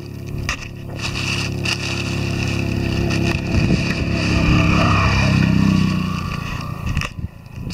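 A motor vehicle's engine running, growing louder to a peak about five seconds in and then fading away near the end, like a vehicle passing by.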